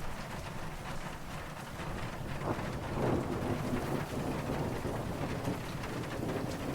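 Steady rain falling, with a soft, distant rumble of thunder that swells up about halfway through and fades back under the rain.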